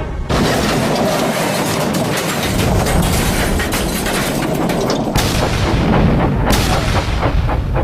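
A loud crash-and-boom sound effect that starts suddenly and runs on as a dense rumbling roar, breaking off briefly twice. Near the end a steam engine's rhythmic puffing begins, about three puffs a second.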